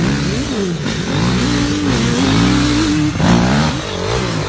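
Motorcycle engines revving, their pitch rising and falling again and again, with several engines overlapping.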